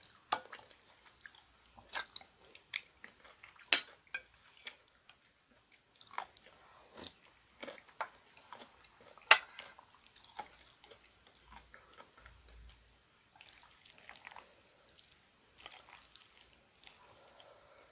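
Close-miked chewing of spicy chicken feet in broth, with wet mouth sounds and scattered sharp clicks, the loudest two a little under four seconds in and just after nine seconds in.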